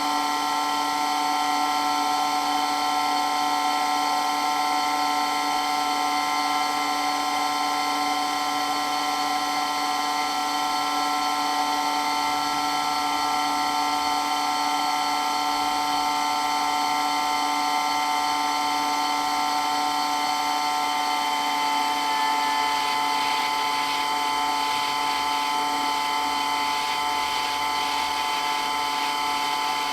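Water pump running steadily, a whine of several high tones over a constant hiss.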